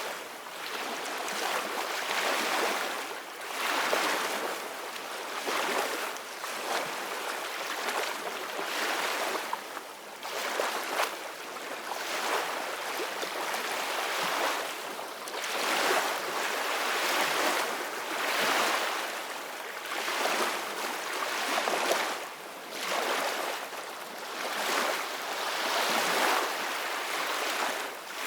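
Sea waves washing and splashing in a continuous rush of water, swelling and falling back every two to three seconds.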